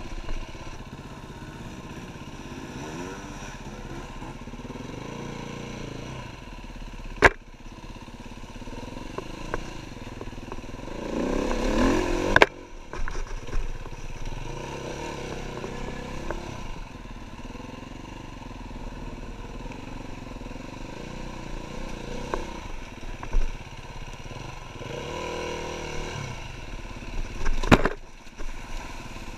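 KTM EXC-F 350's single-cylinder four-stroke engine being ridden off-road, revving up and dropping back with the throttle, with a louder rising rev about twelve seconds in that cuts off suddenly. Two sharp knocks, about seven seconds in and near the end.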